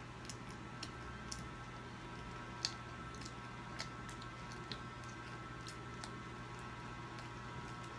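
A child biting and chewing a slice of pizza: faint, scattered wet mouth clicks and smacks, one a little sharper about two and a half seconds in.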